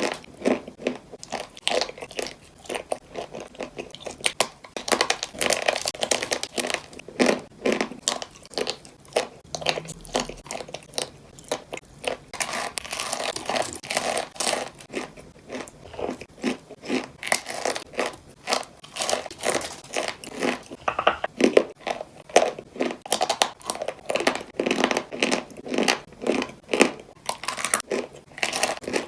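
Close-miked crunching and chewing of chalk: a person bites into and chews pieces of chalk, giving dense, irregular crunches throughout.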